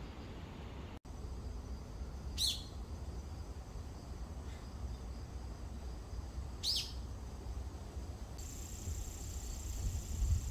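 Two short, sharp bird calls about four seconds apart, each sweeping downward, over a low rumble. Near the end a steady high-pitched insect buzz starts up.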